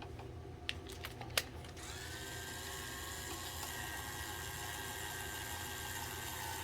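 A few light clicks, then a small electric motor spins up about two seconds in and runs at a steady, high-pitched whine.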